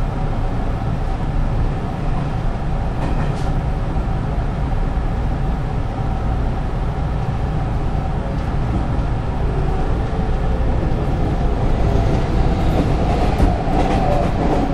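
Hanshin 5500 series electric commuter train running, heard from inside the passenger car: a steady rumble of wheels on rail, with an electric motor whine that grows louder near the end.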